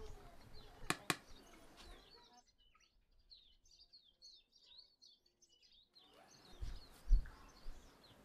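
Small birds chirping faintly in short, quick high chirps. There are two sharp clicks about a second in, and a low thump near the end.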